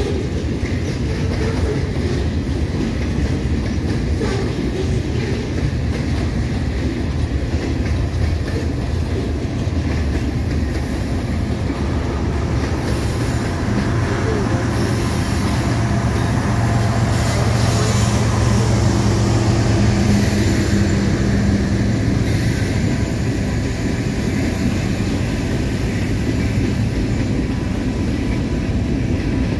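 Freight train passing close by, its cars rolling steadily along the rails. About halfway through, a mid-train distributed-power diesel locomotive goes by, adding a low engine hum that swells and then fades.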